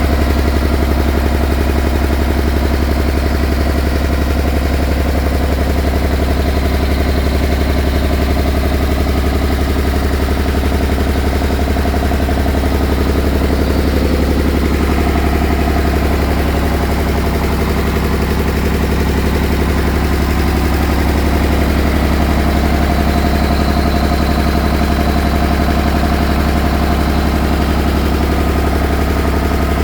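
A 50 mm all-gear pillar drill running: its electric motor and geared head make a steady, loud machine hum with a strong low drone and many even tones above it.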